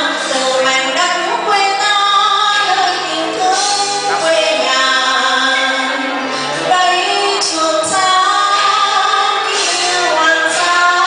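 A woman singing with amplified music accompaniment.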